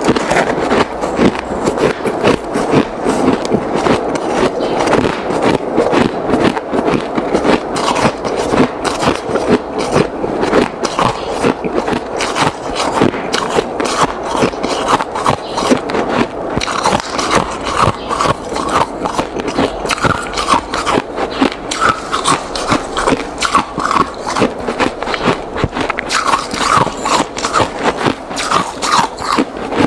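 Hard ice being chewed: a rapid, continuous run of crisp crunches with no let-up.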